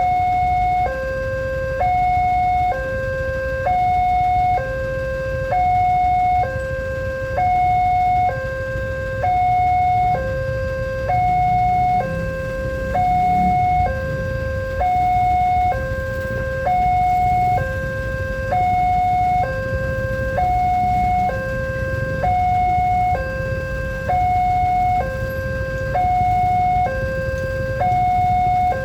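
Railway level-crossing warning alarm sounding continuously as an electronic two-tone signal, alternating evenly between a higher and a lower tone about once a second, over a steady low rumble.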